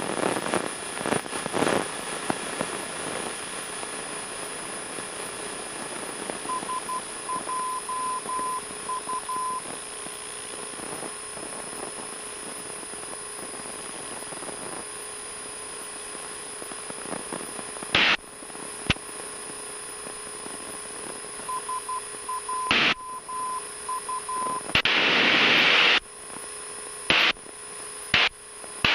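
Aircraft VHF radio audio between transmissions: a steady static hiss with a faint fixed tone. Twice, a short run of on-off beeps like Morse code is heard. In the second half come squelch clicks and short bursts of static, the loudest about three-quarters of the way in.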